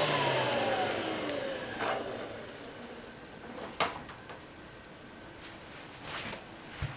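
Vorwerk VK 117-1H upright vacuum cleaner's motor spinning down after switch-off, its whine falling in pitch and fading away over the first two seconds. A sharp click follows a little later, with a few faint knocks.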